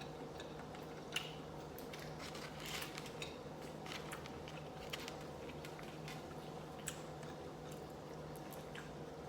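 A person chewing food, with scattered small clicks of cutlery against a dish, over a steady low hum.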